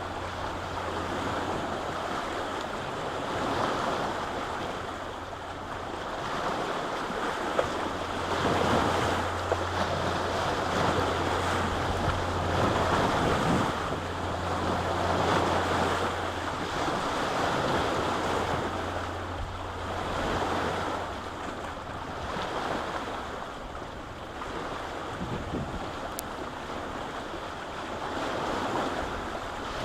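Lake waves washing onto the shore in repeated swells every couple of seconds. A steady low hum sits underneath and stops about two-thirds of the way through.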